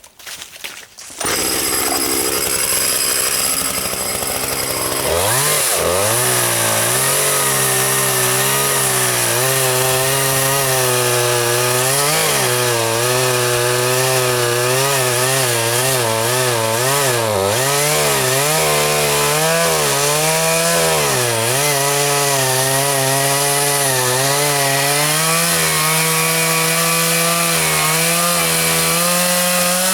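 Chainsaw engine revving up about five seconds in and then running at high speed, its pitch dipping and recovering again and again as it bogs under load and picks back up, as in cutting wood.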